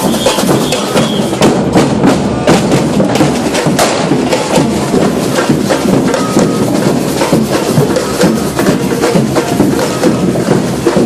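Procession band drumming, with many sharp irregular knocks and cracks over a dense, loud din of crowd and street noise.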